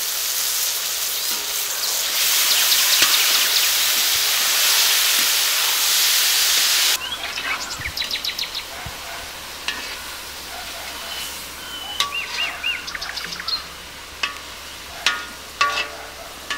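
Mushrooms, onion and chilli sizzling steadily in oil in a large iron kadai; the sizzle cuts off suddenly about seven seconds in. Afterwards birds chirp repeatedly and a metal ladle clicks a few times against the pan while stirring.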